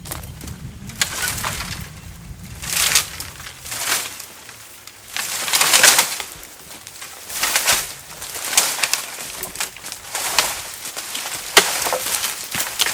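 Bamboo canes and leafy branches rustling and crackling in repeated bursts, about one every second or two, as bamboo is pulled out of a tangled clump.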